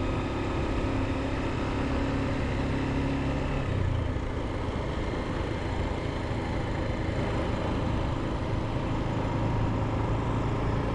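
Motorcycle engine running steadily while riding, under a haze of road and wind noise; the engine note changes about four seconds in.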